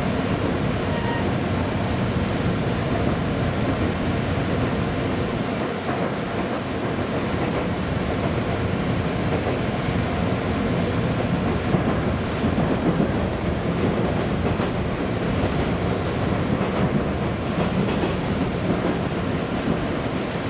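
Running noise inside a JR Central 211 series electric multiple-unit motor car (MoHa 210-13) travelling at speed: a steady rumble of wheels on rail, with a few louder knocks about twelve seconds in.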